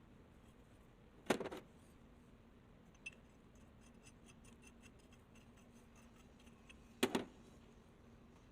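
Two short clusters of metal clinks, about six seconds apart, with a single small click between them, over a faint steady hum: metal parts or tools being handled and set down.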